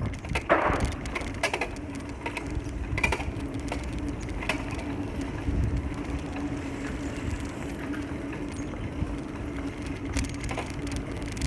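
Town street noise heard from a moving bicycle: a low rumble of tyres and wind with a steady hum and scattered light clicks and rattles.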